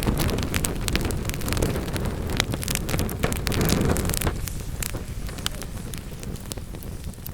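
Wood fire in a fireplace crackling and popping, with many sharp snaps over a low rumble that eases after about four seconds.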